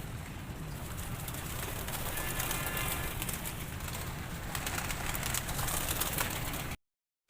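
Domestic pigeons cooing in a loft, over a steady low rumble. The sound cuts off suddenly shortly before the end.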